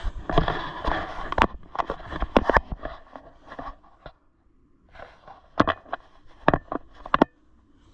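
Handling noise from the camera being moved and hooked into place: rustling and scraping with a run of sharp clicks and knocks, a brief pause about four seconds in, then several more sharp knocks.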